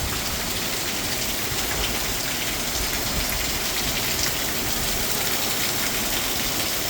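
Heavy rain pouring down steadily, a dense, even hiss with scattered sharper drop ticks.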